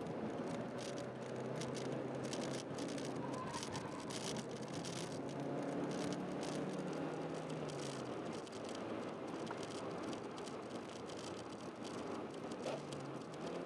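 Honda Jazz 1.3-litre four-cylinder engine running at steady moderate revs, its note rising and falling slightly, heard from inside the cabin over road and tyre noise. A light rattling of loose trim or the camera mount runs through it.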